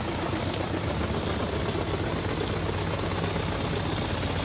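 Biber 84 truck-mounted wood chipper running steadily: a deep, even engine drone under a constant rush of noise.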